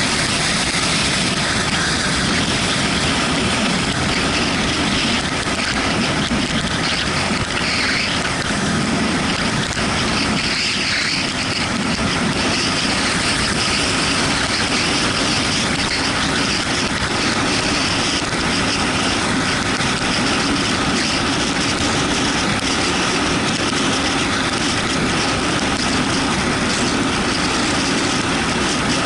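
Yamaha MT-125 motorcycle on the move in the rain: its 125 cc single-cylinder engine running under a steady rush of wind and wet-road noise.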